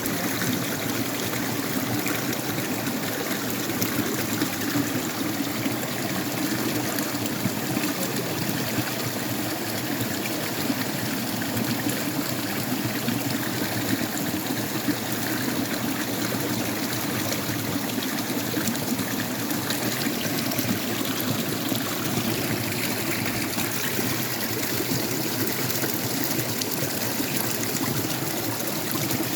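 Water flowing steadily, a continuous even rush without breaks.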